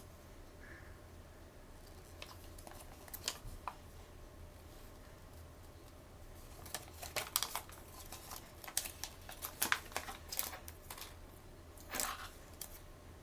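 Toy packaging handled by hand: a few light crackles a couple of seconds in, then a busier run of crackles and rustles through the second half.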